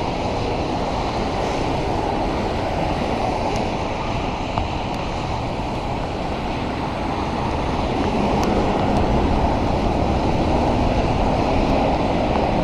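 Steady rushing noise of riding a bicycle in the rain: wind buffeting the microphone along with the wash of a wet road, growing a little louder over the last few seconds.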